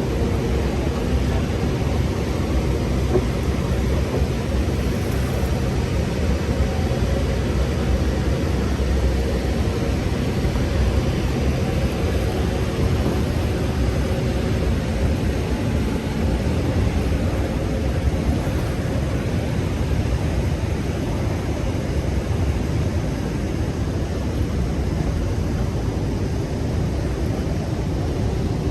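Steady roar of the Rhine Falls' churning water mixed with a tour boat's engine running under way.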